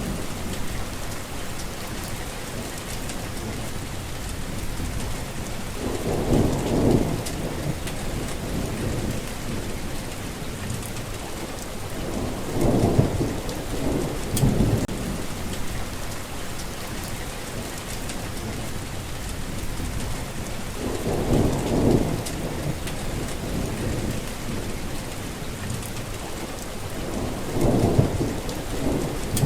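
Steady rain falling, a constant hiss, with rolling thunder rumbling low four times: about a fifth of the way in, twice near the middle, and once more near the end.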